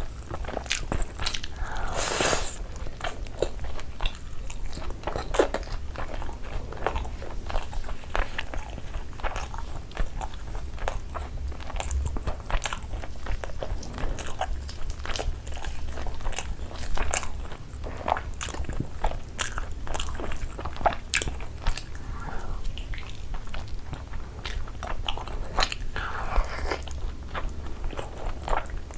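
Biting into and chewing peri peri tandoori chicken, with crunching and many quick sharp mouth clicks throughout.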